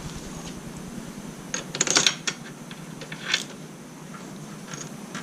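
Metal parts clinking and clicking together as the front wheel is fitted and lined up: a cluster of light metallic clinks about two seconds in and another short clink a little after three seconds.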